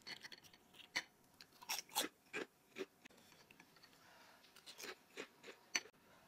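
Close-miked chewing of a mouthful of bakso meatball soup, a run of irregular short wet mouth clicks and small crunches.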